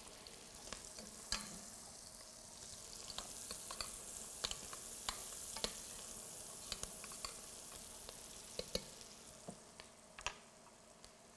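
Onions and garlic sizzling in rendered bacon fat in a stainless steel pot as a spoon stirs them. A steady faint hiss with many scattered sharp clicks and pops.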